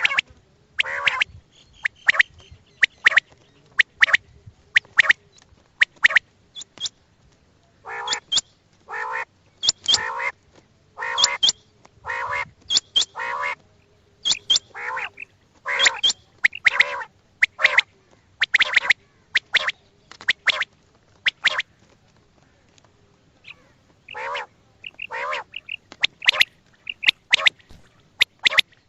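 Recorded quail calls of the kind played as a hunting lure: short, sharp calls repeated in quick groups of two or three, with a pause of about two seconds near the end.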